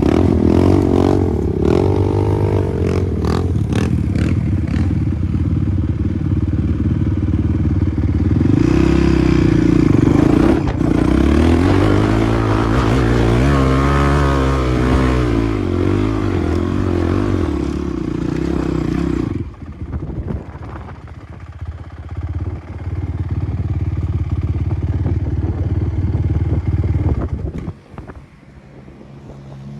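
Dirt bike engine revving hard and unevenly, pitch repeatedly rising and falling as the bike is worked up rough off-road ground. About two-thirds of the way through it drops suddenly to a quieter, steadier run.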